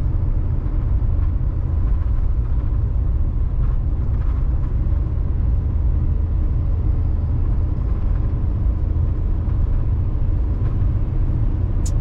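Steady low rumble of a 2020 Chevy Silverado 3500 HD dually's 6.6-litre Duramax diesel and tyres while cruising on the road, heard from inside the cab.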